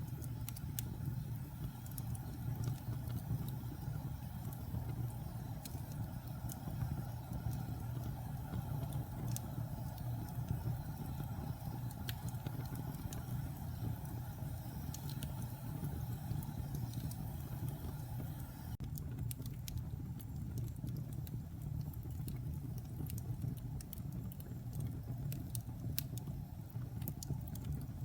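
Wood fire burning in a fireplace: a steady low rumble of flames with scattered sharp crackles and pops from damp pine logs as they heat.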